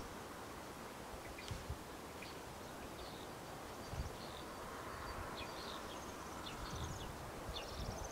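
Small birds chirping faintly and on and off, over quiet rural background noise, with a few soft low thumps.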